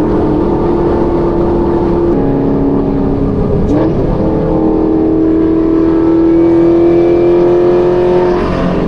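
Chevrolet Camaro ZL1's supercharged 6.2-litre V8 running under way. The engine note steps in pitch about two seconds in, climbs slowly as the car gathers speed, and drops suddenly near the end, as at a gear change.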